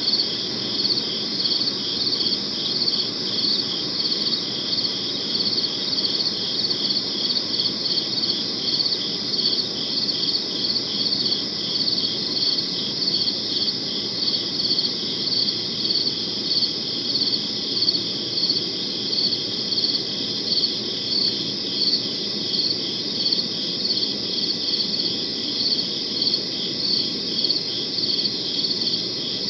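Crickets chirping in a steady, evenly spaced rhythm, high-pitched and continuous, over a soft low background hiss.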